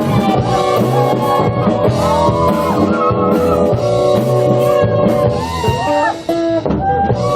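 Rock band music: guitar over a drum kit keeping a steady beat, with a brief drop in level about six seconds in.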